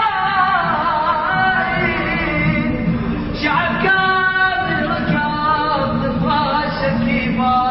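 A man singing without accompaniment, holding long notes with wavering, sliding ornaments.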